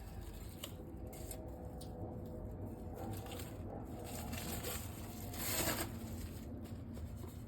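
Quiet handling noises: faint scrapes and clicks, with a louder rustle about five and a half seconds in.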